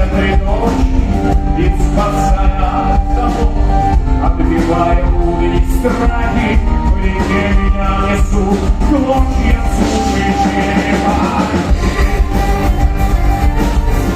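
Folk-rock band playing live with singing over a full, loud rock backing. The deep bass drops out for a moment about ten seconds in, then comes back.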